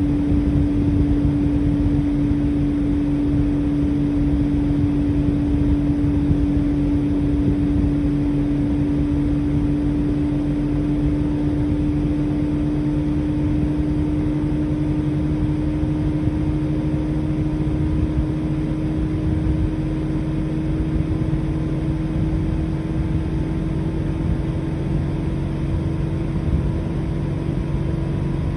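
Outdoor unit of a Mitsubishi Heavy Industries Beaver SRK56TX2 air conditioner running steadily. A compressor hum sits over the low rumble of the fan, and it rises slowly in pitch as the unit settles into operation.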